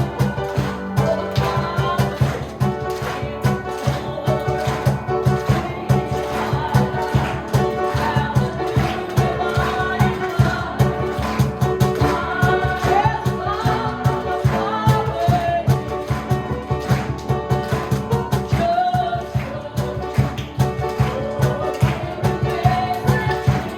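Live Southern gospel music: voices singing over a band with a quick, steady beat and bass.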